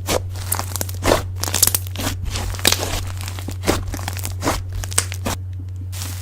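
Slime being squeezed and pressed by hand, giving a run of sharp clicks and pops at irregular intervals, one or two a second, over a steady low hum.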